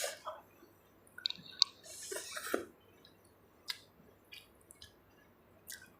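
Close-up wet chewing and smacking mouth sounds of someone eating khanom jeen rice noodles with seafood papaya salad. There is a cluster of squishy chews about one to two and a half seconds in, then only scattered soft clicks.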